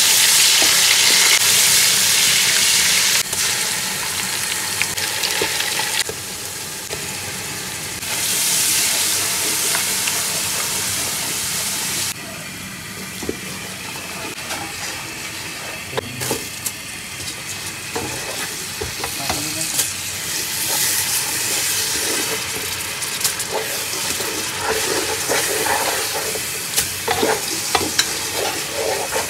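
Sliced onions, bay leaves and whole spices frying in hot oil in a pan: a loud sizzle that dies down after a few seconds, then a second loud burst of sizzling. It then settles into quieter frying with a spatula stirring and scraping through the masala, and near the end raw rice grains being stirred and scraped into it, with busier clicks.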